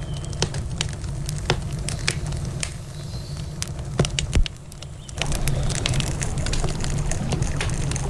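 Campfire crackling, with irregular sharp pops of burning wood over a steady low rush. Two louder pops come about four seconds in, followed by a brief lull before the rushing sound picks up again.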